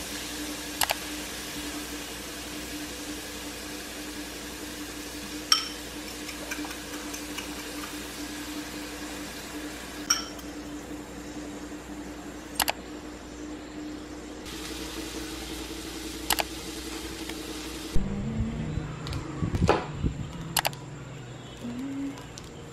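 Shredded cabbage and carrots sizzling in a frying pan over a steady hum, with a few sharp clinks of the spatula against the pan. Near the end it gives way to the crinkling of plastic seasoning sachets being opened over a bowl of instant noodles, with a fork knocking in the bowl.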